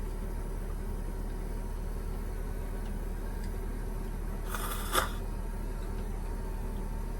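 Steady low electrical hum of running appliances, with a short rustle about four and a half seconds in that ends in a sharp click.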